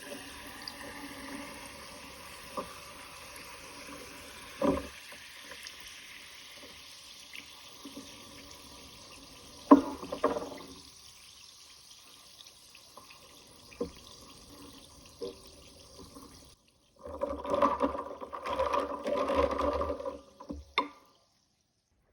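Water running steadily, as from a tap, with a few sharp knocks, the loudest about ten seconds in. Near the end comes a louder, busier stretch of a few seconds with a low rumble, which stops abruptly.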